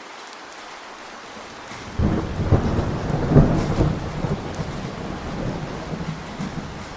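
Steady rain with a clap of thunder breaking about two seconds in, a low rumble that peaks a second later and then rolls away over several seconds.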